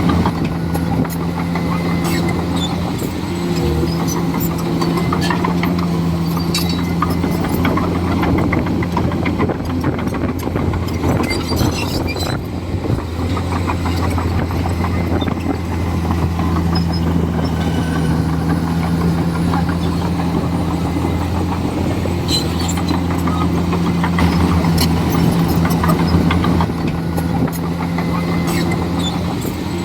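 Komatsu D41E bulldozer's diesel engine running steadily, its pitch holding with small shifts, with scattered clicks and knocks from the machine at work.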